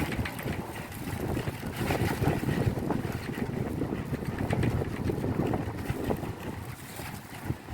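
Heavy rain and strong wind on roof tiles: a dense patter of drops over a low rushing gust that swells about a second in and eases near the end.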